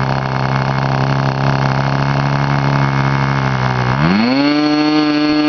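K&B Fuji .05 two-stroke glow model aircraft engine, fitted with a muffler, idling steadily at a very low idle, then revving up smoothly to a higher speed about four seconds in as the throttle is opened, and holding there. The clean, even idle and smooth pick-up show a well run-in engine.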